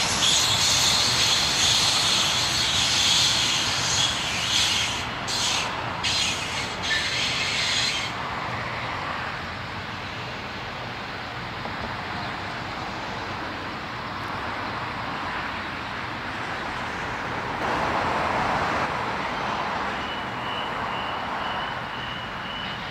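A double-deck electric passenger train passing, its wheels on the rails giving a loud high rushing hiss that drops away about eight seconds in, leaving a softer rumble that swells briefly. Near the end a faint high tone repeats several times.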